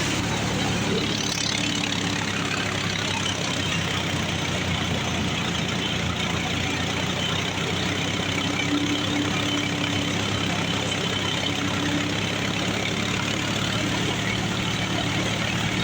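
John Deere 5205 tractor's three-cylinder diesel engine running steadily under load, driving a wheat thresher by belt, with the thresher's steady whirring noise mixed in.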